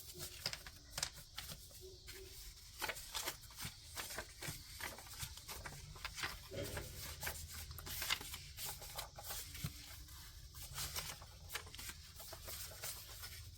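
Paper cash bills being handled and sorted by hand: an irregular run of short rustles and crinkles.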